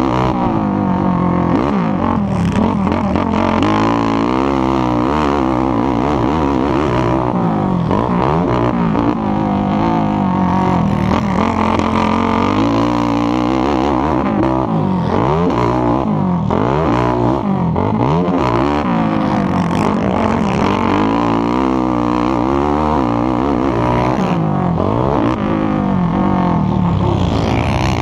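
Racing ATV engine revving hard, its pitch climbing and dropping every second or two as it accelerates and backs off, with other engines overlapping at times.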